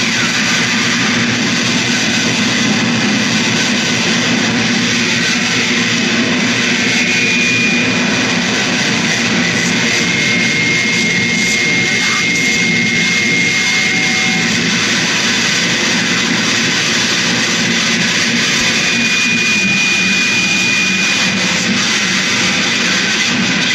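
Dense, steady wall of harsh electronic noise music, loud and unbroken, with thin high whistling tones fading in and out over it.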